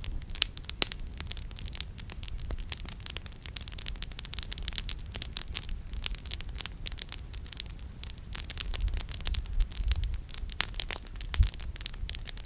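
Campfire of burning firewood crackling, with frequent irregular sharp pops and snaps, over a steady low rumble.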